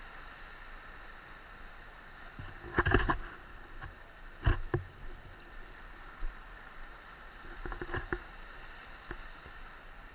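Steady outdoor background noise with a few short knocks and thumps, about three and four and a half seconds in and again near eight seconds.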